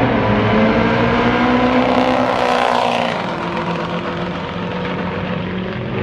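Pickup truck engine and exhaust at full throttle on a drag strip launch. The pitch climbs for about three seconds, then breaks off and the sound fades somewhat as the truck pulls away.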